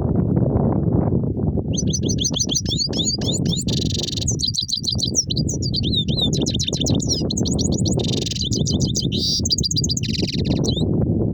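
Himalayan goldfinch singing a fast twittering song of high chirps and buzzy trills. The song starts about two seconds in and stops shortly before the end, over a steady low rumbling background noise.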